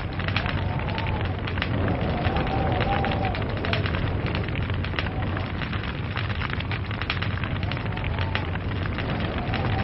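Log fire crackling: dense, irregular pops and snaps over a steady rumble of burning. A faint whistle rises and falls a few times, near the start, around two to three seconds in, and near the end.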